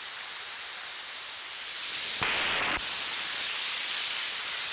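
Steady rushing of water from a small waterfall, a little louder from about two seconds in, with a brief louder whoosh just after that.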